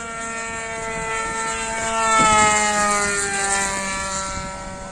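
DLE 20cc single-cylinder two-stroke gasoline engine of an RC Zero warbird flying past. It grows louder to a peak about two seconds in, then drops in pitch and fades as the plane goes by.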